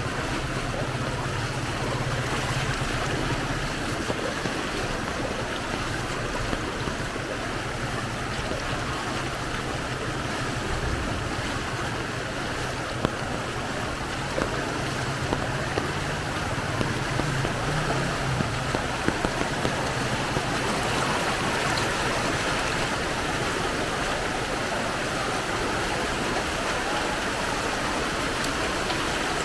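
Fast-flowing floodwater rushing through a flooded street, a steady watery rush. A low engine hum sounds under it in the first few seconds and again briefly in the middle, and a few small knocks come near the middle.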